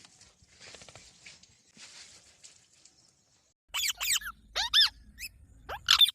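Green parrot calling: after some faint rustling, a quick series of short, shrill screeches starts about three and a half seconds in. Each screech rises and falls in pitch.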